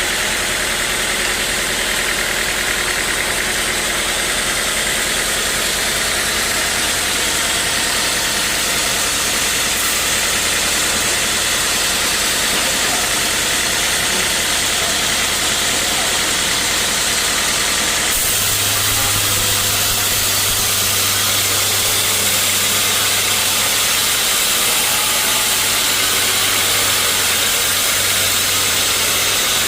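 Sawmill saw and its driving engine running steadily, a loud continuous hiss over a low engine hum. The hum changes pitch about two-thirds of the way through.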